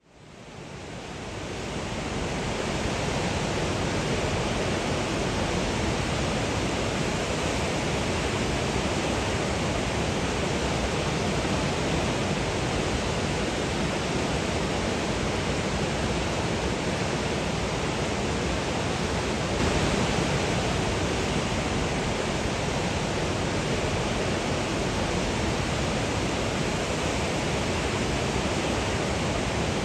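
Niagara River whitewater rushing: a steady, dense roar of water that fades in over the first couple of seconds and then holds even.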